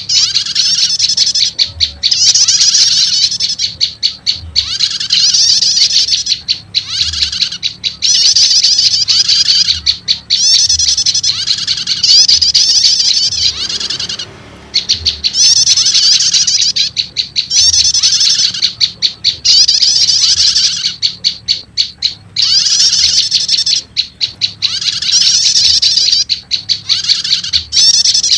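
Lure-call recording of prenjak lumut, a prinia, mixed with prenjak setater calls: loud, rapid, high-pitched chattering trills repeated in phrases of about two seconds with short gaps between them, used to draw wild prenjak lumut in.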